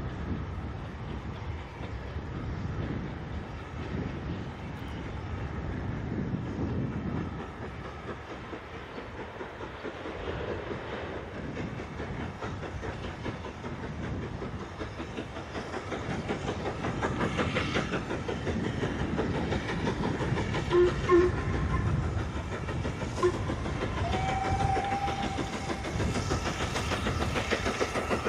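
Steam train on the move, its running sound growing louder toward the end, with a few brief tones partway through.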